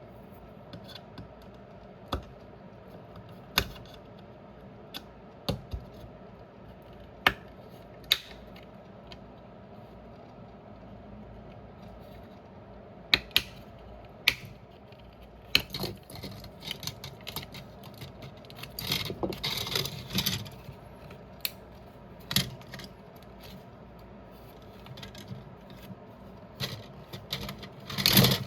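Small tools and plastic parts being handled during headphone disassembly: scattered sharp clicks and taps over a low steady hum. A stretch of scraping and rustling comes in the middle, and a loud cluster of clicks near the end.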